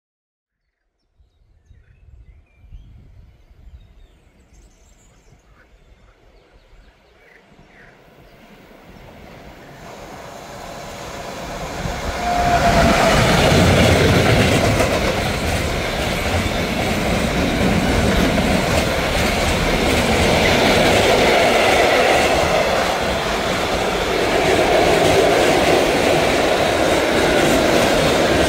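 Bombardier Traxx electric freight locomotive approaching and passing with a long train of tank wagons: a rumble that builds from faint to loud over several seconds, then loud clickety-clack of wheels over rail joints and a steady rush of wagons rolling by. A brief squeal comes as the noise peaks.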